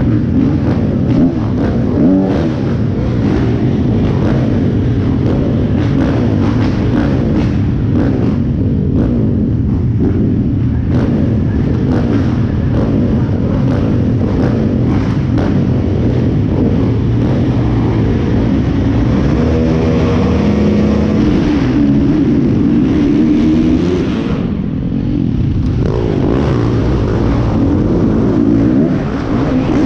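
Motocross dirt bike engine running hard and revving throughout, with a clear rise in pitch as it accelerates about two-thirds of the way in.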